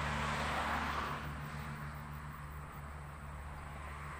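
Motorcycle engine idling steadily, with the road noise of a passing vehicle fading away in the first second.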